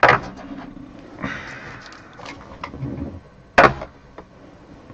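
Handling noise as trading cards and their boxes and holders are moved and set down: a few sharp knocks with some rustling between, the loudest knock about three and a half seconds in.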